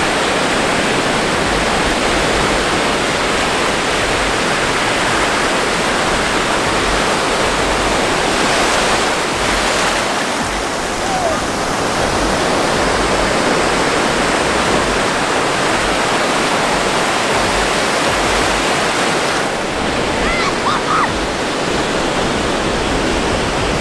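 Ocean surf breaking on a beach: a loud, steady rushing noise with no clear pauses.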